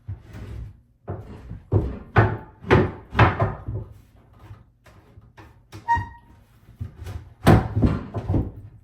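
Repeated wooden knocks and thuds as the vanity cabinet and its sink top are shifted and pushed against the wall, coming in two clusters, with a brief squeak about six seconds in.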